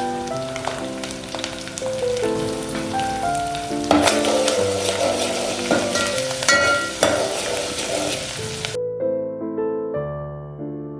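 Food sizzling as it fries in a pan, with a few scraping clicks of stirring. It is loudest in the middle and stops abruptly about nine seconds in, leaving only soft piano background music, which plays underneath throughout.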